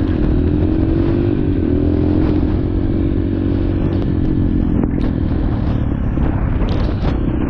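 Dirt bike engine running at a fairly steady speed while the bike rides along.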